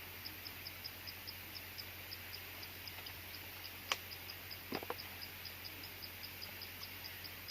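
Insect chirping in an even rhythm, about four high pulses a second, with a single sharp click about four seconds in and a couple of duller knocks just after.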